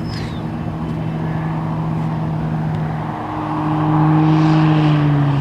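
Propeller aircraft engine droning steadily, growing louder about three and a half seconds in and dropping slightly in pitch near the end as it passes.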